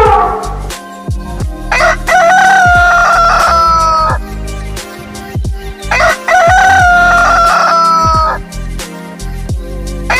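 Rooster crowing twice, each crow a long held call of about two seconds, a few seconds apart, over a low repeating background beat.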